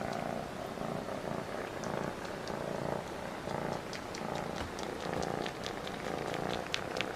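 A cat purring close up, the purr swelling and fading in a steady pulse about every two-thirds of a second, with scattered light ticks over it.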